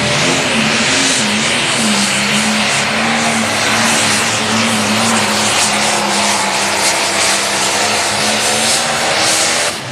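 Light pro stock pulling tractor's turbocharged diesel engine running at full throttle under load while pulling the sled, its pitch wavering slightly. The sound drops off sharply near the end.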